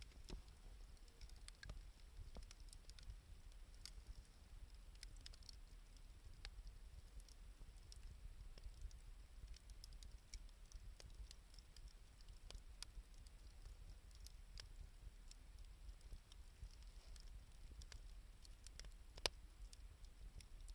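Wood fire of scrap 2×4 lumber and found wood crackling quietly, with sparse, irregular pops and one louder pop near the end.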